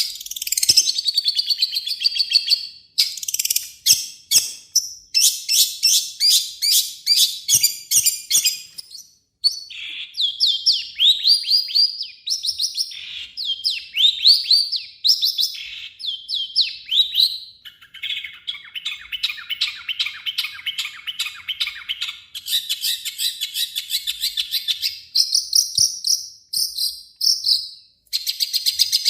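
Long-tailed shrike singing a long, varied, harsh song: runs of rapid high chattering notes, a string of quick rising whistled notes around the middle, and a lower rattling chatter a little past halfway.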